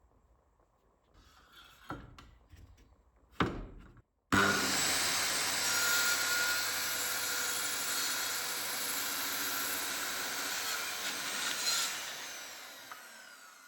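A couple of light wooden knocks, then a power tool cutting or working plywood runs steadily for about eight seconds and winds down near the end.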